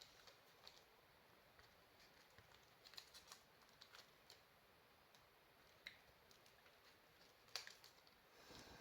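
Near silence broken by scattered faint clicks and small taps of handling, with a sharper click about seven and a half seconds in.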